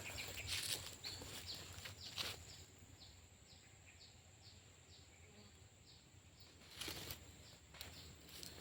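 A bird calls a run of about a dozen short, falling high notes, two or three a second, over a steady thin high insect drone. A few rustling steps through undergrowth come near the start and again near the end.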